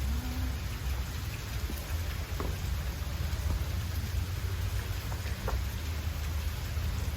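Falling water splashing steadily, a continuous hiss with a low rumble beneath it.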